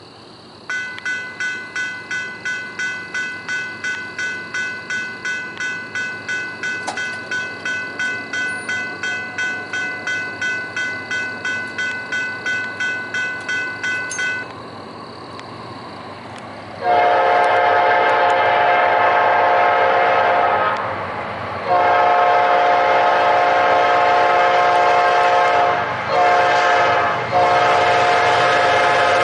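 Grade-crossing bell ringing steadily at about two strokes a second. Then a Norfolk Southern freight locomotive's multi-chime air horn sounds the grade-crossing signal: two long blasts, a short one, and a long one running on.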